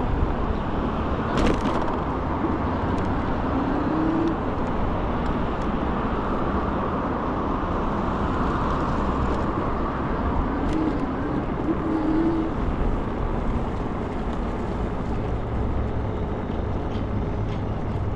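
Steady wind and road noise from riding an Ikingi S6 Pro electric scooter, with a single sharp crack about one and a half seconds in.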